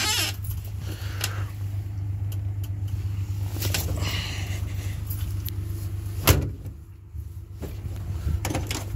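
Steady low hum of an idling engine under small rattles and knocks from someone moving about in a dump truck cab, with one sharp bang about six seconds in.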